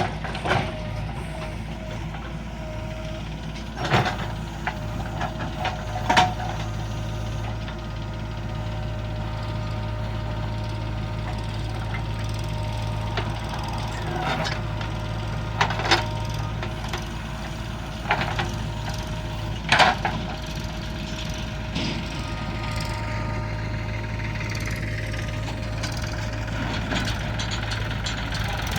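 Heavy diesel earthmoving machinery running steadily, with a constant low engine drone and a steady whine. About six sharp knocks and clanks come through at irregular intervals, the loudest near the end of the first third.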